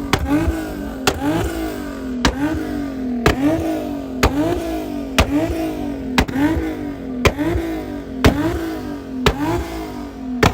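Car engine blipped over and over, about once a second: each blip rises quickly in pitch and sinks back, with a sharp crack at each.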